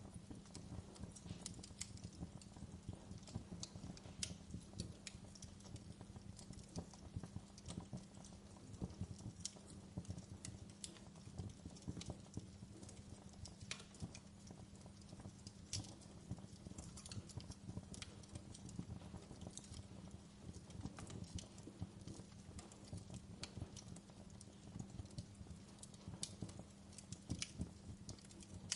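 Wood fire burning in a fireplace: irregular sharp crackles and pops over a soft, steady low rumble of the flames.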